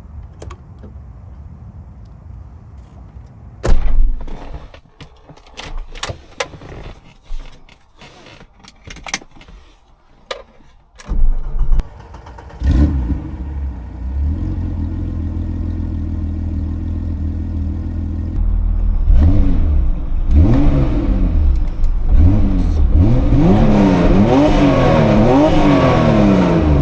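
A series of knocks and clicks, then the BMW E30 325i's M20B25 inline-six starting and settling into a steady idle through a straight-piped Eisenmann exhaust with the catalytic converter removed. From about the middle on it is revved in repeated blips, quicker and louder near the end, heard from inside the cabin.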